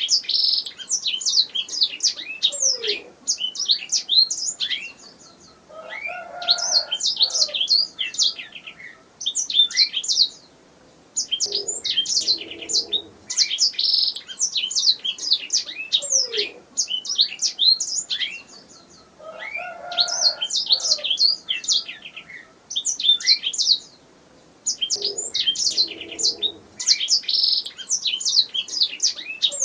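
Domestic canary singing: long, fast runs of high chirps and rolling trills, broken by short pauses every six or seven seconds, with fainter, lower calls in some of the gaps.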